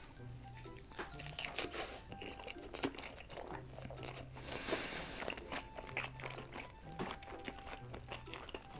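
Close-miked chewing of a large mouthful of steamed giant meat dumpling: wet, irregular smacking and squishing with small clicks as the filling and thick wrapper are chewed.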